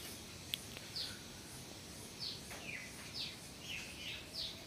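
A bird calls repeatedly with short, high notes that slide downward, several in a few seconds, over faint outdoor background noise. A small click comes about half a second in.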